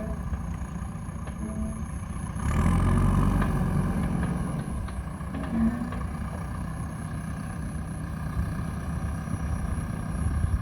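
JCB backhoe loader's diesel engine running, revving up about two and a half seconds in and then holding steady, with a faint high whine rising as it revs.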